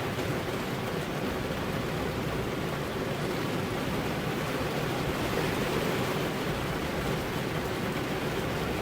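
Heavy rain falling steadily, an even rushing hiss with no thunder or single drops standing out.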